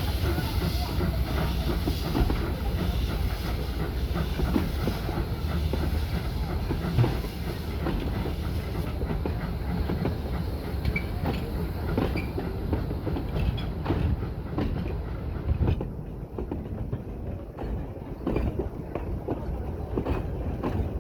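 Narrow-gauge train hauled by a steam tank locomotive running along the track: a steady low rumble with the wheels clacking irregularly over rail joints. The hiss in the upper range fades partway through.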